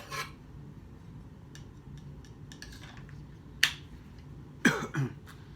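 Folding pocket knives being closed and handled: a few light clicks, then a sharp click of a blade snapping shut about three and a half seconds in, and a louder clack near the end.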